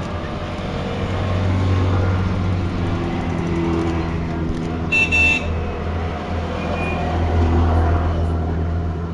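Goggomobil microcars with two-stroke twin-cylinder engines driving past one after another, their engine note swelling twice as each car passes. A short horn toot sounds about five seconds in.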